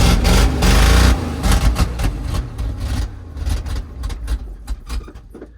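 Cold vehicle engine on a cold start, running loud for about a second, then dropping off and sputtering with uneven, irregular firing as it fades and dies down. The choke seems to be stuck on.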